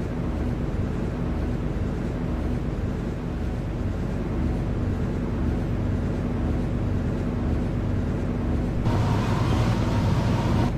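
Steady running noise inside an MTR Tseung Kwan O line C-Train car: a low rumble with a held hum. About nine seconds in, a louder hiss joins it.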